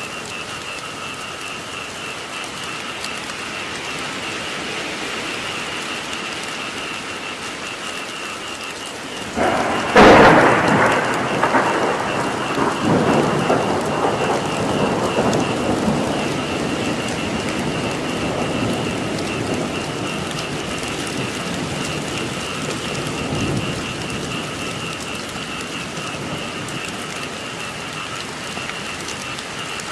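Steady heavy rain falling, with a thunderclap about ten seconds in: a sudden loud crack followed by a rumble that slowly fades. A steady high chorus of frogs calls throughout.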